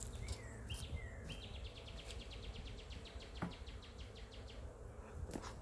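A small bird calling: a few short falling chirps, then a dry rapid trill of about ten notes a second lasting about three seconds, over a low steady rumble of wind.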